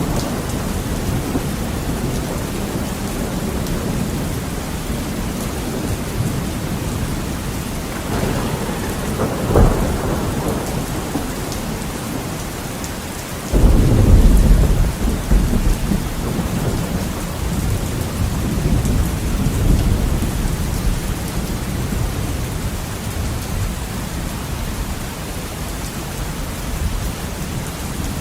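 Heavy rain pattering steadily on window glass in a thunderstorm. Thunder rumbles underneath, with a sharp crack about nine seconds in and a loud clap about halfway through that rolls on for several seconds before fading.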